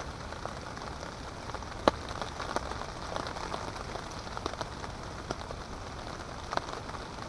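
Light rain falling on a tarp overhead: an even hiss with scattered drop ticks, one sharper tick about two seconds in.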